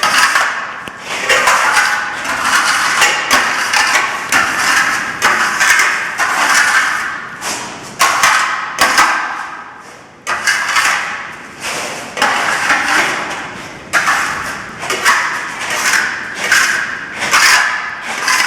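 Steel trowel swiping over Venetian plaster in repeated scraping strokes, about one or two a second, each starting sharply and trailing off.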